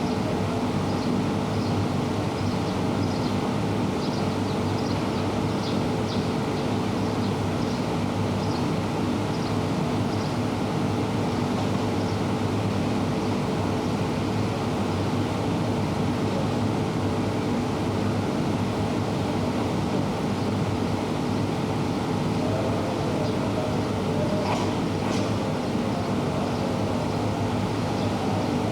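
Electric commuter train at a station platform: a steady mechanical hum with light repeated ticking during the first half, and a brief higher sound near the end.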